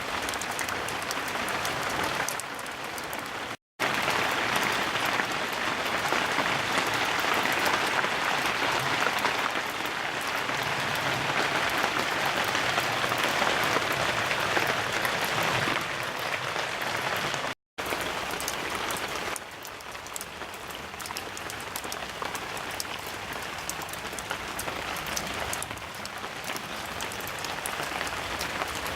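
Rain falling heavily, a dense steady hiss that grows louder for a while and then eases off, broken twice by a brief total silence.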